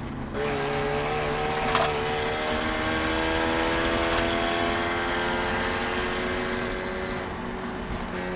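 Eagle Talon's four-cylinder engine heard from inside the cabin, pulling under load, its pitch rising gradually for a few seconds and then levelling off. Two brief knocks cut through, one about two seconds in and another about four seconds in.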